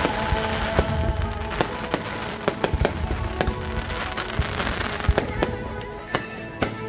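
Fireworks going off in a string of irregular sharp bangs and crackles, with music playing underneath.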